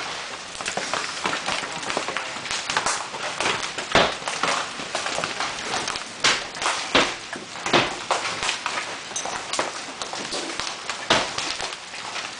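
Large hailstones striking hard surfaces: irregular sharp knocks and thuds over a steady hiss of falling hail and rain, the hardest strike about four seconds in.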